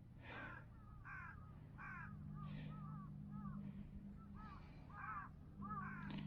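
Birds calling outdoors: a run of short, repeated calls, several a second, over a faint steady low hum.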